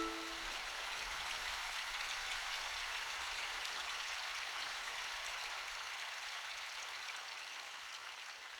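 Steady rain falling, an even hiss of many drops that fades slowly toward the end.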